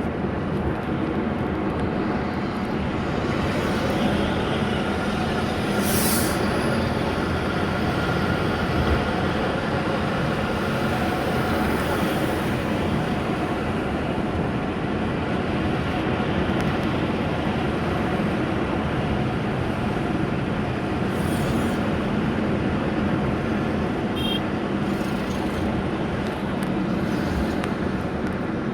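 Steady engine and road noise from a moving car, running evenly, with a few brief high hisses.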